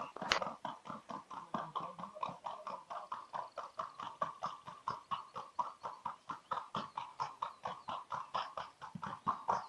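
Hooves of a Colombian Paso horse beating in a fast, even rhythm of about four to five strikes a second, with one sharper, louder strike about a third of a second in.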